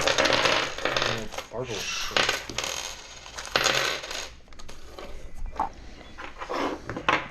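Small metal hardware clinking and jingling in several short bursts: loose bolts, washers and nuts from a truck leveling kit being handled and sorted.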